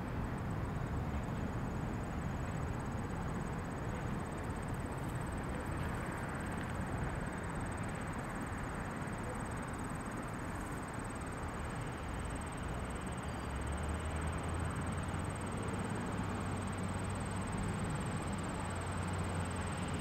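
Freight train of open-top coal hopper cars rolling past on the rails, a steady noise of wheels on track. A low hum joins in about two-thirds of the way through.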